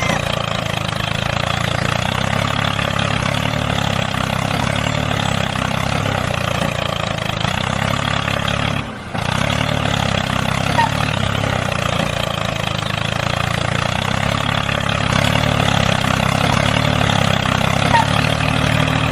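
A tractor engine running steadily as it pulls a plough, cutting out briefly about nine seconds in.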